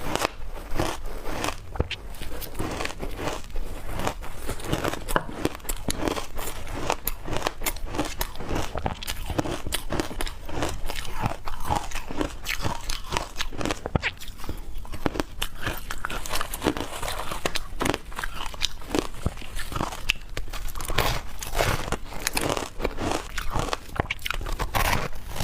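Close-up crunching and chewing of shaved ice, a dense run of irregular crisp crackles as the ice is bitten and ground between the teeth.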